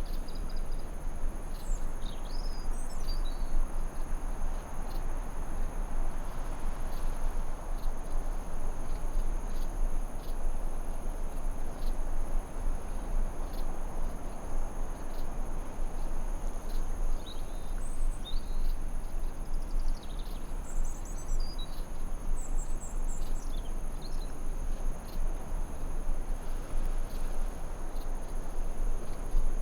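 Forest ambience: a steady high insect trill runs throughout, with scattered short bird chirps and whistles, loudest near the start and from about 17 to 24 seconds in. Beneath them is an even, rushing noise bed.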